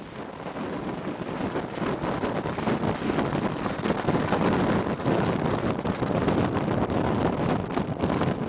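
Strong gusty wind buffeting the microphone, swelling up over the first couple of seconds and then blowing steadily with gusts.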